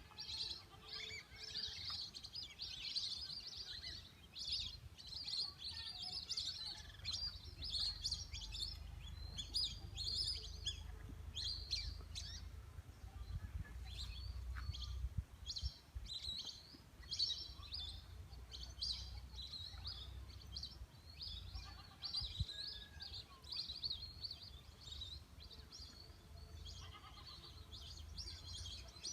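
A flock of birds calling: many short, high chirps and whistles overlapping without a break, over a low steady rumble.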